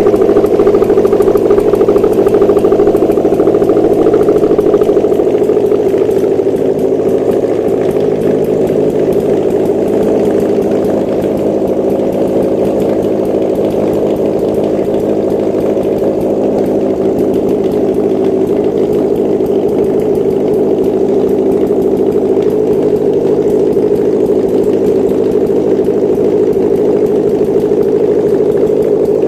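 Subaru EJ205 2.0-litre turbocharged flat-four engine running steadily at idle on a test stand. It eases down slightly a few seconds in, then holds an even idle.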